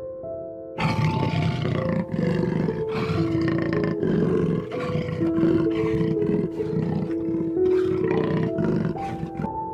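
A large animal's rough, rasping calls, starting about a second in and going on in quick pulses, over background music with a simple melody.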